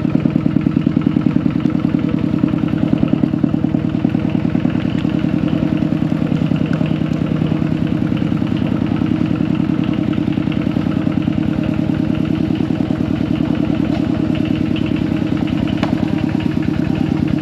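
Small engine running steadily at a constant speed, with a fast, even beat.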